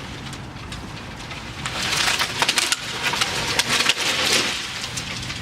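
A tree being pulled over: a dense run of cracking, snapping wood and thrashing branches that builds about two seconds in and lasts for two to three seconds.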